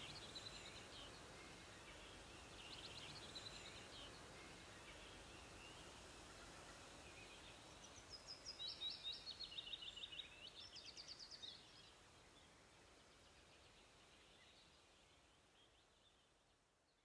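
Faint background hiss with a bird singing rapid runs of high chirping notes: a short phrase about three seconds in, and a longer, louder one from about eight to eleven seconds. The hiss then fades away.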